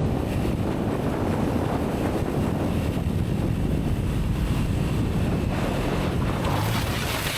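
Heavy wind buffeting the microphone of a motorcycle rider's own camera at riding speed: a loud, steady rush with no break.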